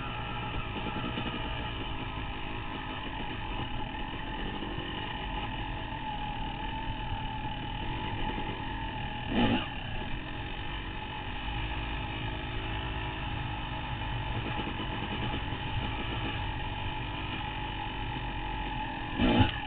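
Dirt bike engine running steadily while riding a trail, heard from a helmet-mounted camera with a low wind rumble; a brief loud swell about halfway through and another near the end.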